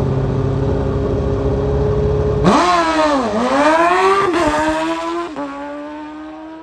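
Drag-racing sportbike engines held at steady revs, then launching about two and a half seconds in. The engine note climbs and drops through several quick upshifts, then fades as the bikes pull away down the track.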